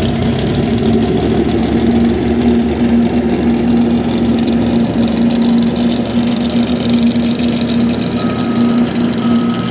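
Diesel truck engine idling steadily with a deep rumble. Near the end a short beep starts repeating about once a second.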